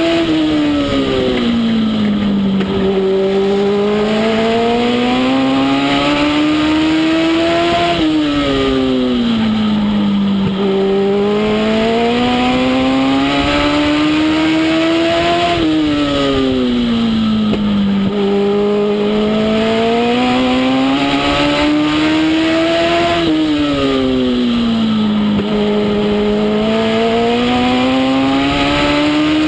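Legend race car's Yamaha 1200 cc four-cylinder motorcycle engine at racing speed. Its pitch climbs steadily for several seconds as it accelerates, then drops quickly as the throttle comes off. The cycle repeats about every eight seconds, like laps on a short oval.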